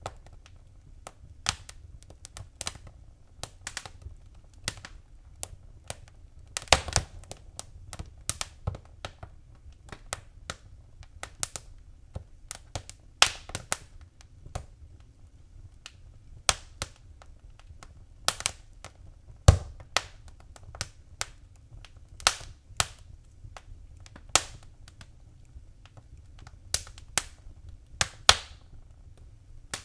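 Wood fire in a fireplace crackling, with irregular sharp pops, a few of them much louder, over a steady low rumble.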